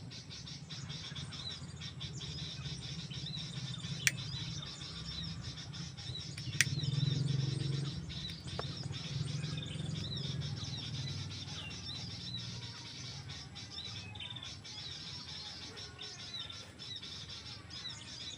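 Small birds chirping over and over in short high calls. Two sharp clicks come about 4 and 6.5 seconds in, and a low rumble follows around 7 seconds.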